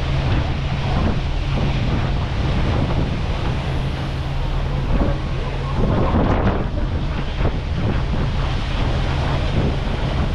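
Wind buffeting the microphone on the deck of a cruise boat, over the steady low hum of the boat's engine. The wind noise swells louder about six seconds in.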